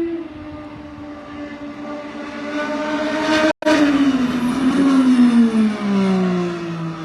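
IndyCar's twin-turbo V6 engine passing at speed. Its note builds to a peak about halfway through, then drops steadily in pitch as the car goes away.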